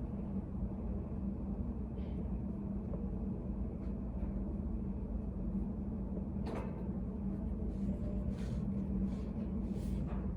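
Study cafe room ambience: a steady low hum with a constant drone, and a few faint light knocks and rustles, most of them in the second half.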